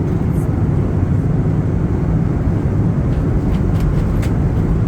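Steady cabin noise of an Airbus A321 in flight: a constant low drone of engines and airflow, with a few faint light clicks in the second half.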